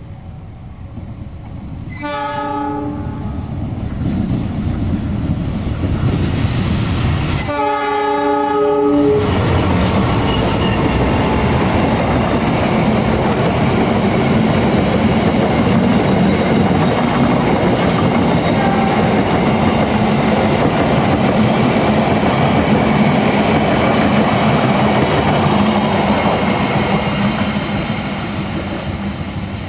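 A passenger train's locomotive horn sounds two blasts, the second a little longer. The train then runs past at speed with a steady rumble and clatter of wheels on the rails, which fades near the end as it moves away.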